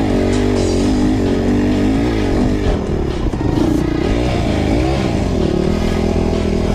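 Motocross motorcycle engine revving, its pitch rising and falling again and again.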